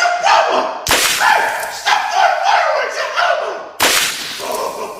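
Two sudden sharp cracks about three seconds apart, each followed by a wavering, voice-like cry.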